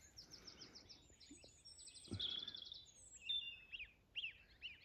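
Faint bird chirps and quick high trills, with a few separate rising-and-falling chirps in the second half.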